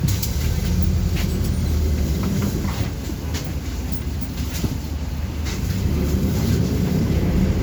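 City bus on the move, heard from inside: a steady low engine and road rumble with scattered rattles and clicks.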